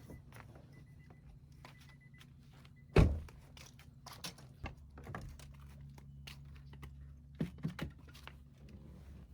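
A car door shut with a heavy thunk about three seconds in, followed by several lighter knocks and clicks over a low steady hum.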